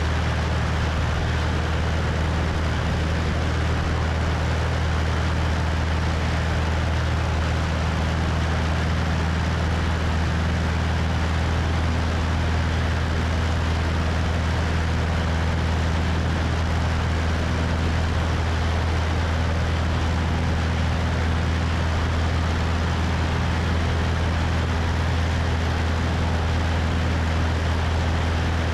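Cessna 172's piston engine and propeller droning steadily in flight, with wind rushing over a wing-mounted microphone.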